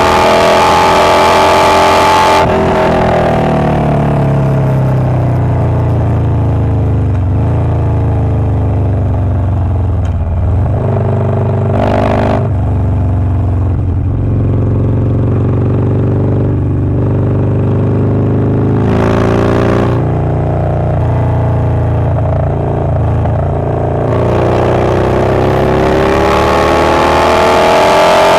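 Harley-Davidson Low Rider S's Milwaukee-Eight 117 V-twin, fitted with a Wood Performance 777XE cam, running loud at high revs, dropping off about two seconds in and holding a steady lower speed, then revving up again in the last few seconds.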